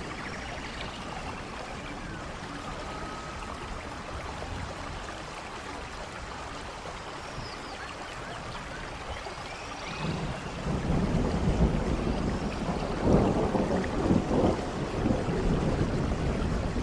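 Steady rain in a rainforest with a few faint high bird calls. About two-thirds of the way through, a low rumble of thunder builds and stays loud to the end.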